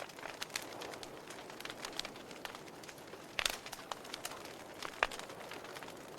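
Wood fire in a fireplace crackling, with irregular small snaps and a couple of louder pops about three and a half and five seconds in.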